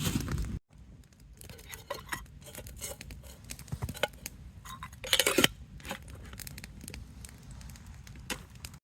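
Scattered light clicks and taps of small objects being handled, with a louder clatter about five seconds in.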